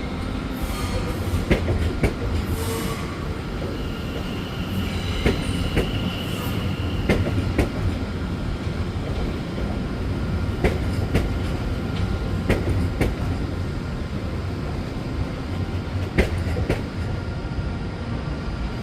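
Train running along the track with a steady rumble, irregular clicks of wheels over rail joints, and a high wheel squeal for a few seconds near the middle.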